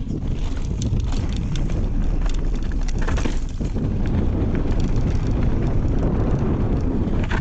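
Wind rushing over the microphone of a mountain bike descending a trail, with frequent clicks and clatters from the bike and its tyres over rough ground.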